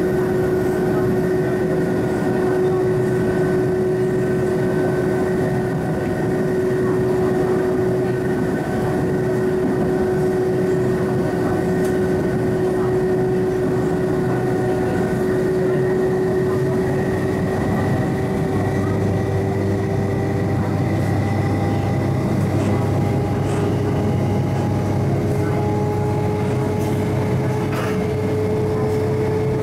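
Refurbished MLR electric train heard from on board, with the traction motors whining in several steady tones over the rumble of running on the track. Over the second half the whine slowly rises in pitch as the train picks up speed.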